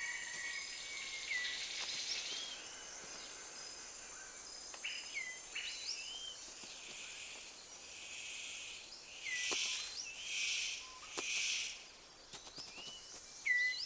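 Rainforest ambience: birds give repeated short, hooked whistled calls over a steady high insect hum. A little past halfway come three brief hissing rushes of sound.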